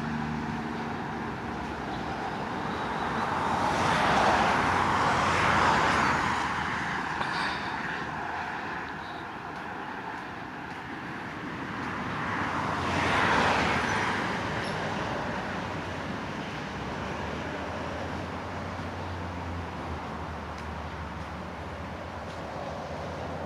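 Road traffic: cars passing with a tyre hiss over a steady background of traffic noise. Two passes swell and fade, one about four to six seconds in and another around thirteen seconds in.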